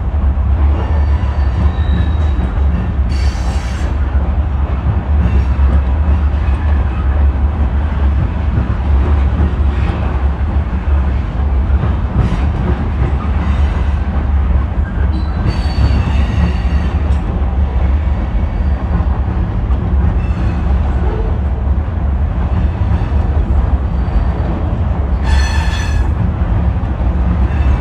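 Freight train rolling by with a steady, heavy low rumble, broken by short high-pitched wheel squeals three times, about 3, 16 and 25 seconds in.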